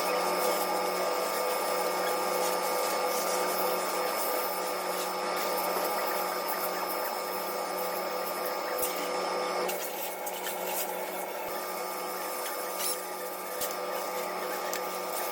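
Steady motor whirr with a constant hum. Some of its higher tones drop out for about two seconds past the middle, then return.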